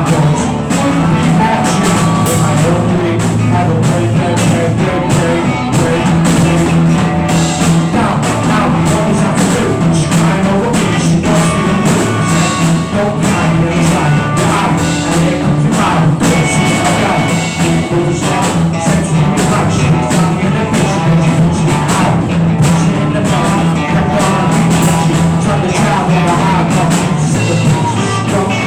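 Loud rock band music with electric guitar, bass and a drum kit playing steadily.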